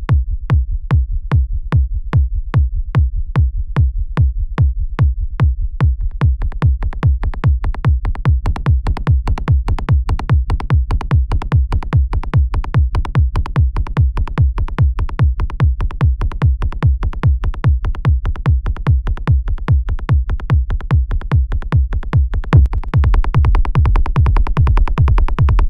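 Electronic beat looping: a synthesized kick drum hitting steadily about twice a second, with a synth bassline between the kicks. About 23 seconds in, the mix gets louder and fuller.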